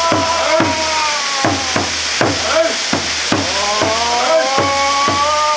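Waterfall pouring, with several long held tones that slide up and down in pitch and a quick run of knocks, about three a second, over it.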